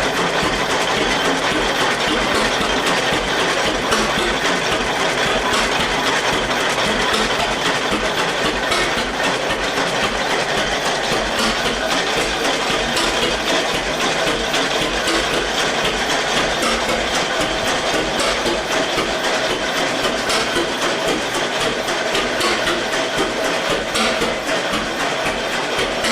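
1919 Eagle 12-22 tractor's two-cylinder engine running steadily, its firing beats coming in an even, rapid chatter.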